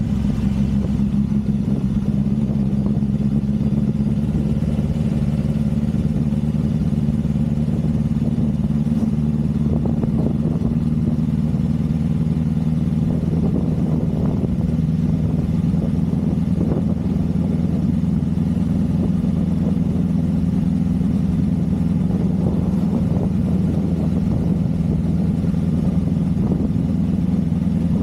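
Motorcycle engine running steadily while riding along the road, a continuous low drone that shifts slightly in pitch about halfway through.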